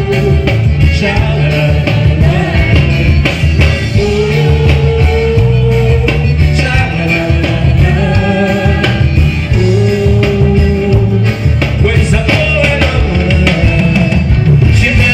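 A forró song played by a band with a singing voice, a steady dance beat and held melody lines.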